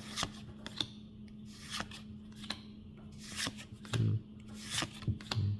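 Pokémon trading cards being slid and flicked through by hand, one card after another, in short scattered rubbing strokes over a steady low hum. There are two soft thumps in the second half.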